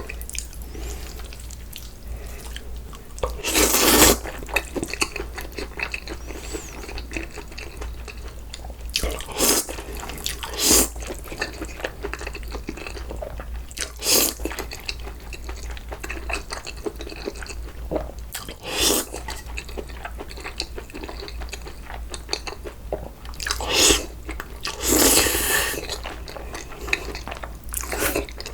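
Close-up eating sounds from a bowl of cold noodles: wet chewing and crunching, broken by several short, loud slurps.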